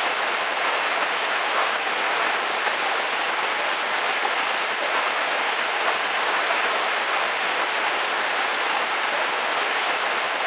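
Heavy rain falling steadily on a camper van's roof, heard from inside as a dense, even patter with faint scattered drop ticks.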